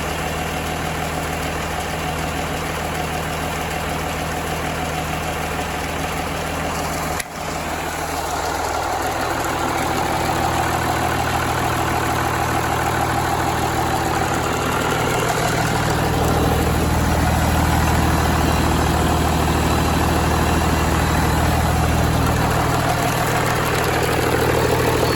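John Deere 6-531T six-cylinder turbodiesel engine running steadily. After a brief break about seven seconds in, its note steps up and grows gradually louder, as if the throttle has been opened a little.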